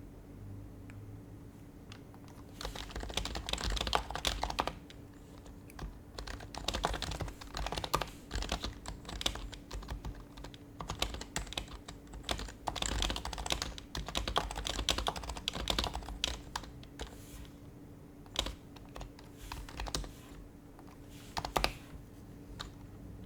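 Typing on an HHKB Professional HYBRID Type-S keyboard, whose Topre switches are the silenced Type-S kind, giving soft muted key presses. It begins about two and a half seconds in as quick runs of keystrokes broken by short pauses, and thins out near the end.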